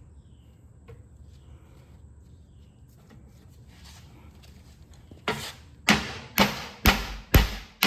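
Hammer blows on a steel pin, driving the spindle shaft out of a John Deere 318 mower deck hub. After a quiet stretch, about six sharp strikes come in a steady rhythm of roughly two a second, starting about five seconds in.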